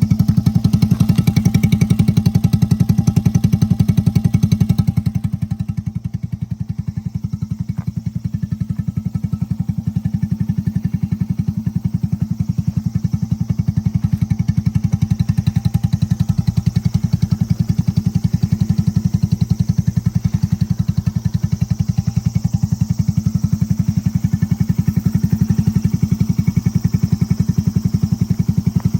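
Jorcub's bored-up 81cc single-cylinder engine, with a Kitaco PC20 carburettor, running steadily at low revs through an aftermarket muffler in an even, pulsing exhaust note. The note drops a little about five seconds in and slowly builds back up.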